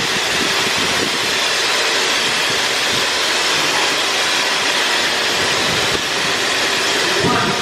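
Automatic tunnel car wash equipment running, a steady rushing hiss that holds at one level throughout.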